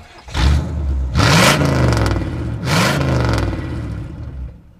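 A vehicle engine revved twice, about a second and a half apart, each rev rising and falling back, then settling and fading away.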